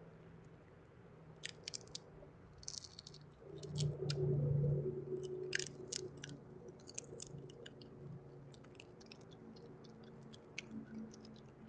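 A raccoon working peanuts in the shell: many small, irregular clicks and crunches of shells being handled and chewed. A low hum swells briefly about four seconds in.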